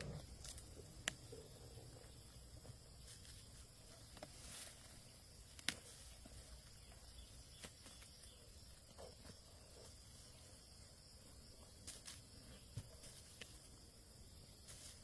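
Near silence with scattered faint sharp clicks and taps, a few seconds apart, over a steady faint high hiss.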